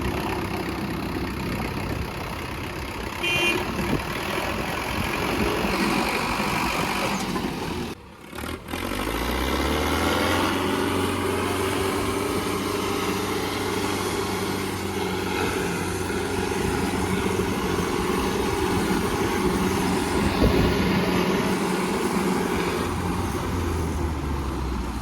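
Tractor diesel engine running hard. About eight seconds in, the sound drops out briefly, then an engine revs up and holds steady at high revs, as under a heavy pull.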